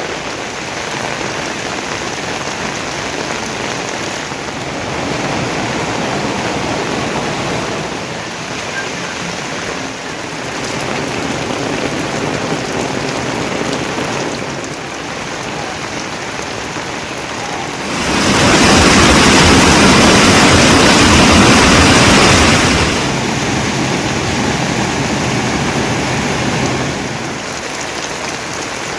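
Heavy rain falling steadily, with a much louder surge of rain lasting about five seconds past the middle.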